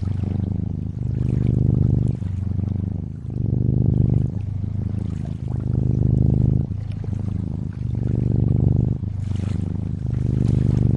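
Domestic cat purring steadily, its rapid low pulsing swelling and fading about once a second with each breath in and out, over a faint water sound.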